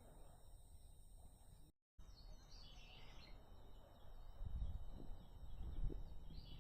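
Wild birds chirping in woodland, with a short cluster of high calls about halfway through and more calls at the very end. Low thuds and rumble come in over the second half.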